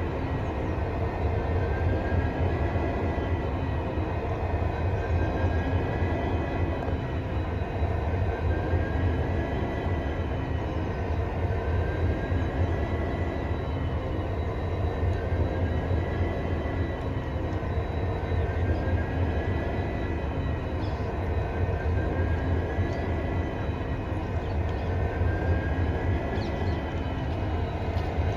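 WDG-4D diesel locomotive's EMD 16-cylinder two-stroke engine running with a steady low hum, a thin high whine above it that slowly rises and falls every few seconds.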